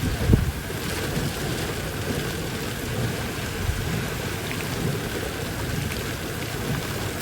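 Steady heavy rain falling, with irregular low thumps in the bass; the strongest comes about a third of a second in.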